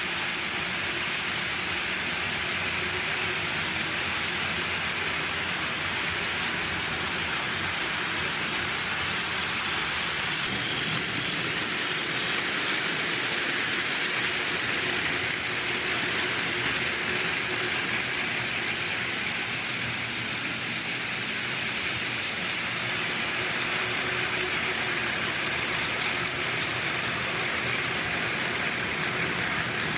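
Battery-powered Plarail toy train running on plastic track: a steady motor whir and wheel rattle with no break.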